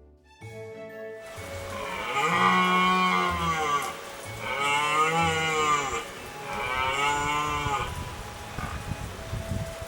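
A cow mooing three times, each moo a long drawn-out call that rises and falls in pitch.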